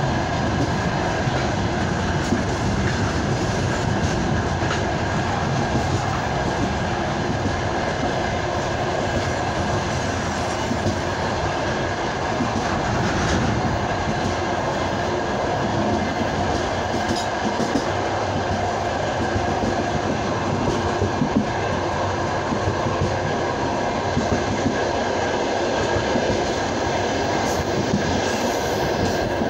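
A train running steadily on the rails, with continuous wheel-on-rail rumble, occasional clicks over the rail joints and a faint steady whine, as it runs alongside a long freight train on the adjacent track.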